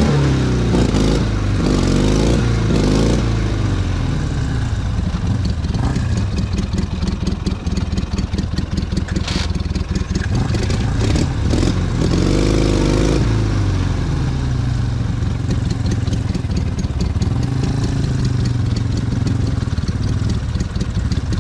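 Enduro motorcycle engine revving in rising and falling bursts, about 12 seconds in as well as at the start, and running steadily in between, as the bike struggles on a climb where it is stuck and will have to be pushed.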